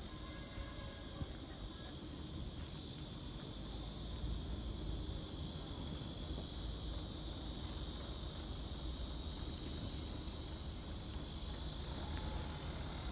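Steady high-pitched insect chorus over a low, even rumble.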